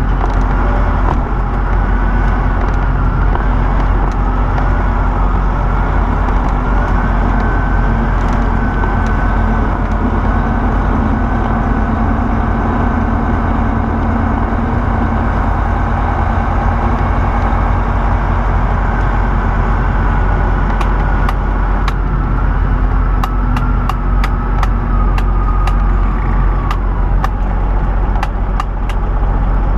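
Semi truck heard from inside the cab while driving: a steady low engine and road drone with a thin wavering whine above it. In the last third, a run of evenly spaced clicks.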